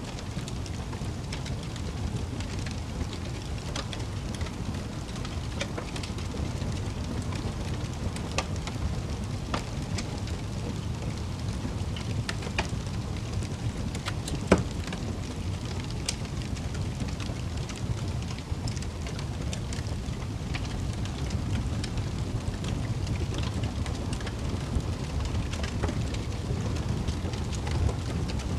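Wood fire burning in a fireplace: a steady low rumble of flame with scattered crackles and pops, one sharper pop about halfway through.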